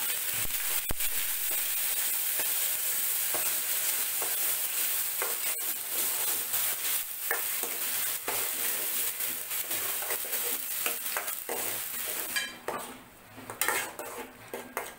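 Ground onion paste sizzling as it fries in oil in a steel pan, stirred with a metal ladle that scrapes against the pan. Near the end the sizzling drops away, leaving a few ladle scrapes.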